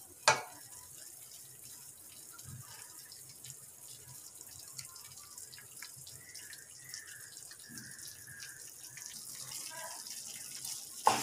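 Wheat flour roasting in ghee in a pan, sizzling faintly with light scrapes and ticks as a wooden spatula stirs it; one sharp knock just after the start.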